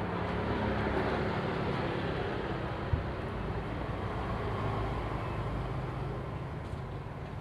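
Parsun 3.6 HP outboard motor running steadily, with one sharp click about three seconds in.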